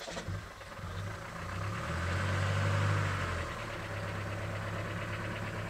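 Safari vehicle's engine running just after being started, picking up briefly about two to three seconds in, then settling into a steady idle.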